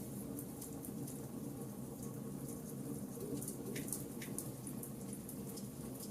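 Burning charcoal in a campfire crackling: irregular small ticks and pops, several a second, over a steady low background noise.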